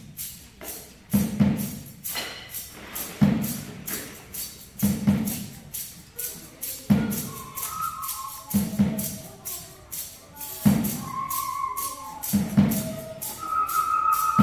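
Percussion ensemble playing: heavy low thumps about every two seconds under a steady stream of fast, light high taps and rattles. Short pitched notes join in about halfway through.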